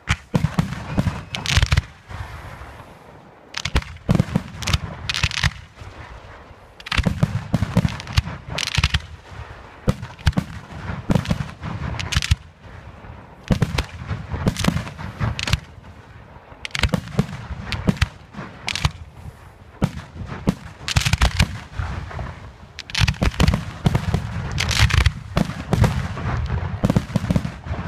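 A rapid barrage of aerial firework shells bursting, the bangs overlapping several a second with a low rumble beneath. There is a short lull about two seconds in, then the bursts build again.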